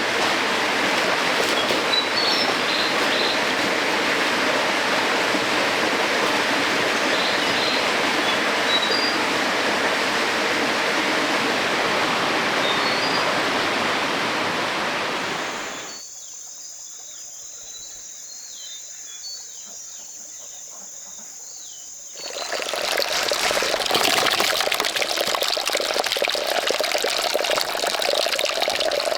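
Stream water rushing and splashing over rocks, with small birds chirping. About halfway through it drops away for some six seconds to a quiet stretch of bird chirps and a high steady tone, then the loud rushing water comes back.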